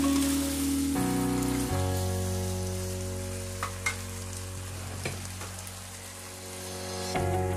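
Beef and potatoes frying in a pan, a steady sizzle, under background music whose sustained chords are the loudest sound and change a few times. A few light clicks come in the middle.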